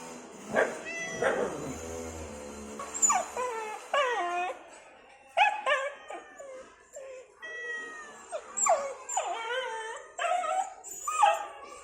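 A dog whining and howling in a long run of cries, one after another, many of them sliding down in pitch.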